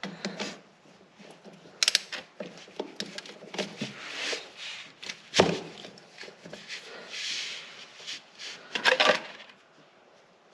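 Hand tools and metal parts being handled during a drain-plug change on a compact tractor: scattered clinks, scrapes and knocks, with one sharp knock about five seconds in.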